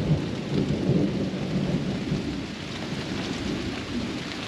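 Rain falling steadily during a thunderstorm, with a low rumble of thunder in the first second or two.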